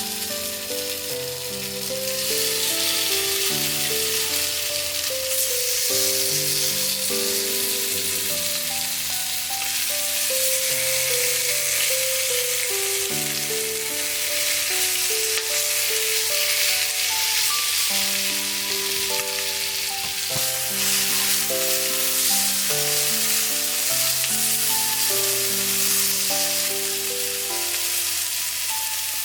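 Food frying in a pan, a steady sizzle, with instrumental background music playing a melody over it.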